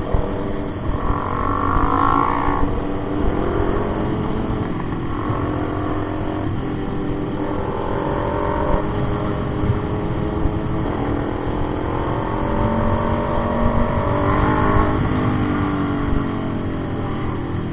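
Motorcycle engine running under way, its pitch rising as it accelerates and dropping back between gears, over steady wind and road noise.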